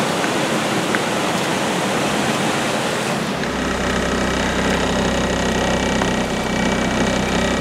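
Heavy rain and rushing floodwater, a steady hiss, with a vehicle splashing through the flooded street. About three seconds in the hiss thins and a steady low engine hum comes up under it.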